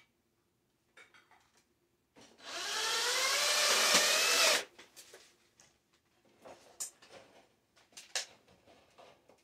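Power drill driving a screw through thin tin-can metal: one run of about two and a half seconds, its whine rising slowly in pitch, then a few light clicks and knocks.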